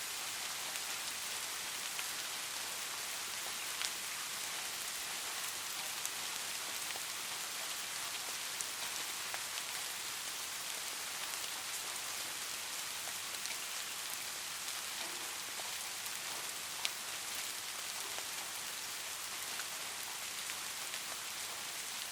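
Steady light rain: an even hiss with scattered drop ticks, a few slightly louder drips standing out now and then.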